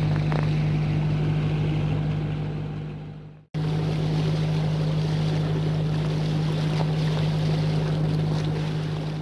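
Sailboat's engine running steadily under way, a constant low hum with wind and water noise over it. The sound fades out about three seconds in, then comes straight back at the same level.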